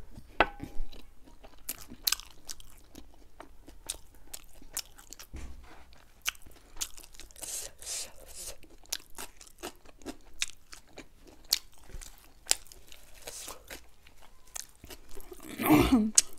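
Close-miked mukbang eating: chewing and crunching of fried chicken wings and noodles, with wet mouth clicks, lip smacks and crisp bites in quick, irregular succession. A short metallic ting, a fork on the foil-covered tray, comes about half a second in, and a louder crunchy burst comes near the end.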